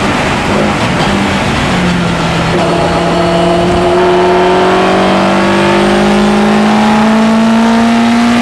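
Lotus Elan's twin-cam four-cylinder engine heard from inside the cockpit, running at full throttle on track. Its note dips and wavers briefly near the start, then rises slowly and steadily as the car accelerates.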